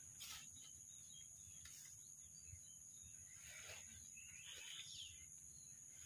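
Near silence: faint bird chirps over a steady high-pitched hiss, with a few soft rustles of guava leaves and branches being handled.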